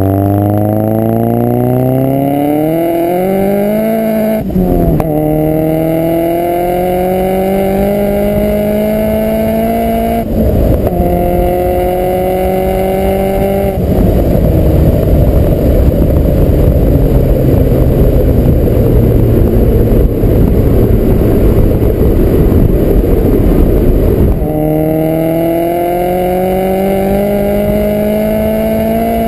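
Turbocharged 2.3-litre four-cylinder of a big-turbo Mazdaspeed 3 accelerating hard, its pitch climbing steadily in each gear and dropping quickly at upshifts about four and ten seconds in. Through the middle a long stretch of loud rushing noise covers the engine note, and near the end another rising pull begins.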